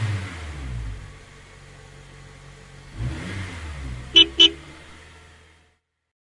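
Cartoon bus sound effect: the engine revs up twice as the bus pulls away, with two quick horn toots about four seconds in, then the engine fades away to silence.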